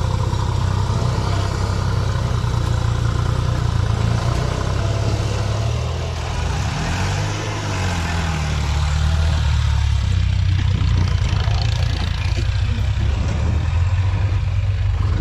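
Tractor diesel engine running hard under load, with its pitch dipping and recovering about halfway through as the revs change.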